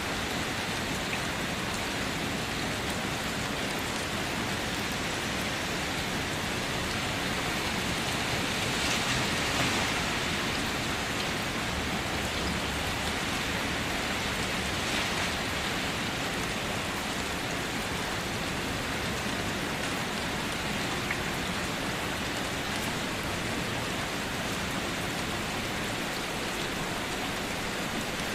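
Steady light rain falling on a surface, an even hiss of drops, swelling slightly about a third of the way in.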